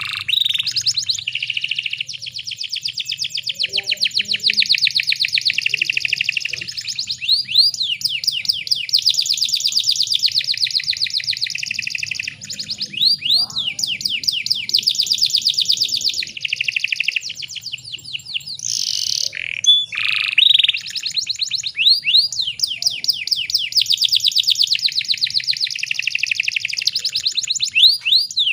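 Canary singing a long song made of fast rolling trills, each a rapid run of repeated notes, with a few brief changes of phrase and short pauses along the way.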